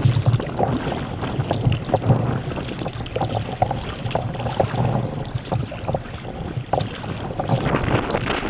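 Wind buffeting the microphone over water splashing and slapping against a kayak, with many small irregular knocks and splashes.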